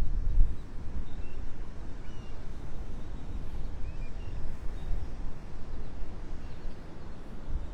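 Steady low rumble of wind and surf on the beach, with faint, scattered short calls of seabirds.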